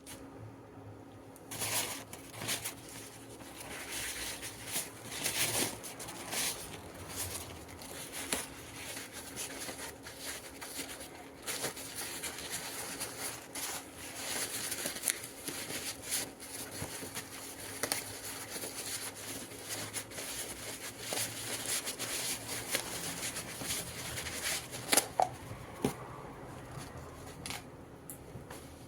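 Wood fire crackling in a wood-burning stove: a steady crackle with irregular sharp pops, a few louder pops near the end.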